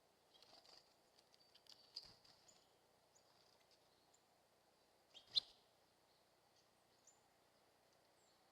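Faint chirps and light clicks of birds at a feeder, with one sharp knock about five seconds in.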